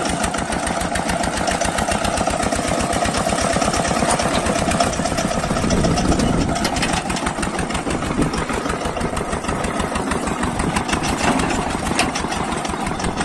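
Engine of a village-built self-loading truck running steadily, a fast even beat of firing pulses.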